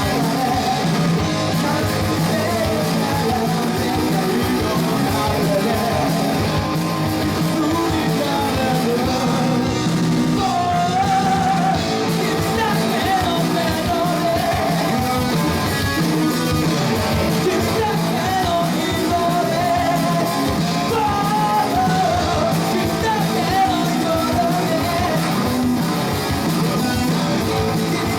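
Rock band music with guitar and a singing voice.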